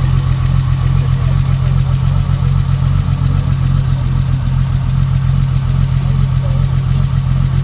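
Ford Falcon's engine idling steadily, with an even low pulsing rumble.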